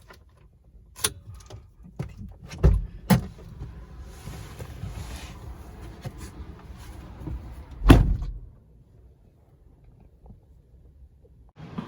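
Car interior handling sounds: a few sharp clicks and knocks, then a car door shutting with a heavy thud about eight seconds in.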